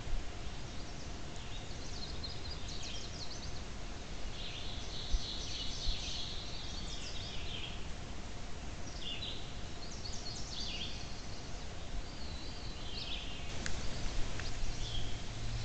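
Small birds chirping in repeated bouts of quick high notes over a steady background hiss from the game camera's microphone, with a faint steady hum underneath.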